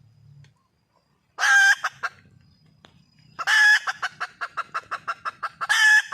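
Red junglefowl hen calling for a mate: a loud pitched note, then a second note that breaks into a quick run of short clucks, about six a second, ending on another loud note.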